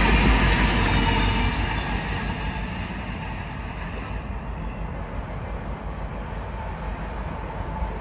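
Freight train of covered hopper cars running on the rails: loud wheel-and-rail noise that fades over the first few seconds, then a steadier, quieter rumble.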